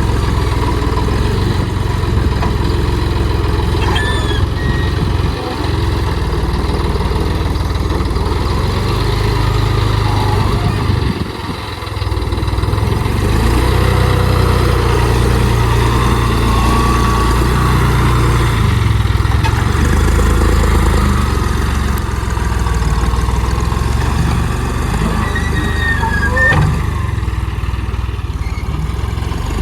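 Tractor loader's diesel engine running steadily with a deep low drone, dipping briefly about eleven seconds in.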